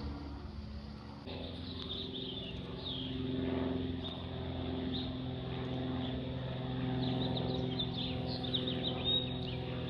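A steady engine drone, a stack of even tones that changes abruptly about a second in and then holds, with birds chirping high over it now and then.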